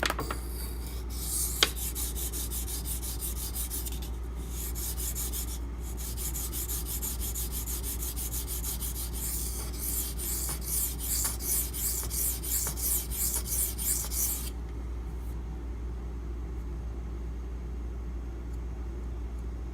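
Steel knife blade stroked rapidly back and forth on a wet 400-grit Imanishi Latte water stone, a gritty rasp with each pass, to raise a burr along the belly and tip. The strokes pause briefly twice and stop about three quarters of the way through, leaving a steady low hum.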